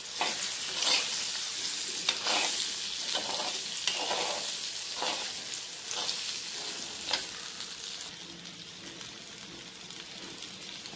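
Pieces of steamed Indian gooseberry sizzling in hot sesame oil in a clay kadai, stirred with a steel slotted spoon that scrapes through them about once a second. About eight seconds in the stirring stops and the sizzle carries on more softly.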